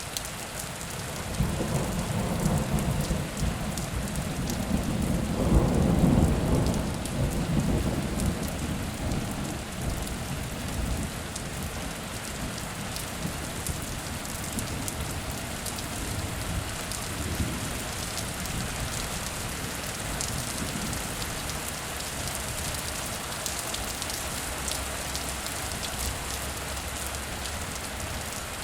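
Heavy rain falling steadily, with a roll of thunder that builds about a second and a half in, peaks a few seconds later and rumbles away over several seconds.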